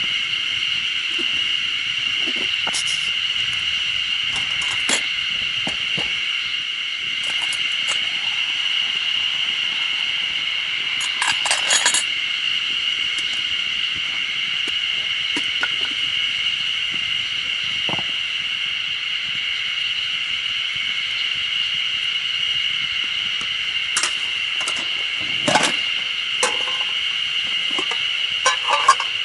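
Light metallic clinks and rattles of camp cookware being handled, a few scattered through, over a constant high-pitched drone.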